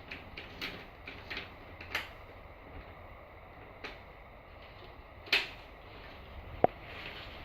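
Scattered light clicks and knocks of handling, with a louder knock about five seconds in and a short, sharp squeak near the end.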